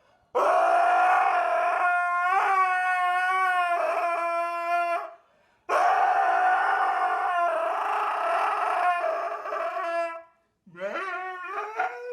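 Dog howling: two long, steady howls of about four and a half seconds each, then shorter howls that rise and fall in pitch near the end.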